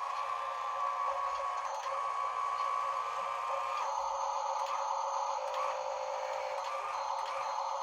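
Small electric drive motors and gearboxes of an RC construction model whining steadily, the tone shifting a couple of times as the model changes speed.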